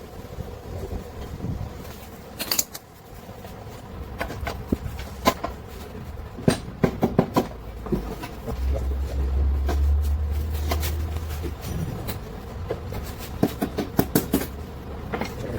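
Scattered sharp metal clinks and knocks of hand tools working on engine parts during a strip-down, coming faster near the end, with a low rumble in the middle.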